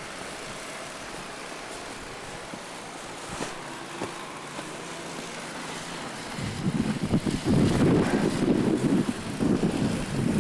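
Snowstorm wind on the camera microphone: a steady hiss, then heavy irregular gusts buffeting the mic from about six seconds in.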